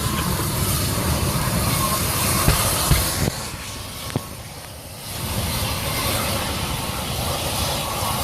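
Loud, steady hissing roar of the burning truck's gas cylinders venting and burning. It dips for a couple of seconds in the middle, with a few sharp cracks from the fire.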